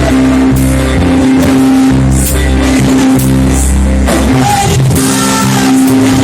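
Live gospel praise band playing loudly, with bass, drums and guitar under held notes and some singing.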